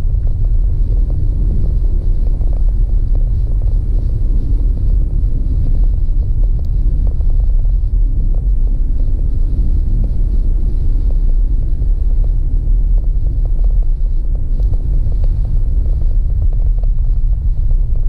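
Steady low road and engine rumble inside a car cabin while driving.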